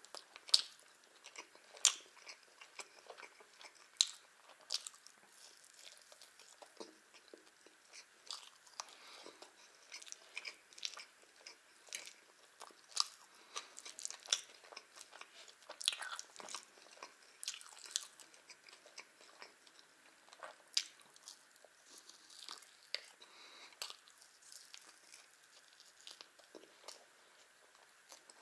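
Close-up chewing and biting of fried chicken and Olivier salad: irregular short clicks and crunches from the mouth, several a second, with no speech.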